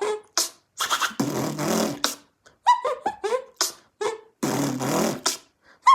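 Vocal beatboxing: long hissing, noisy mouth bursts alternating with quick runs of short squeaky chirps that slide down in pitch.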